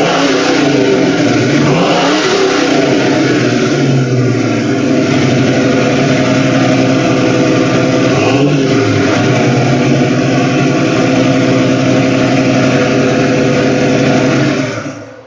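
1970 Mustang Mach 1's 351 Cleveland V8 running loud through two-chamber Flowmaster mufflers, its pitch briefly dipping and rising twice. It shuts off near the end.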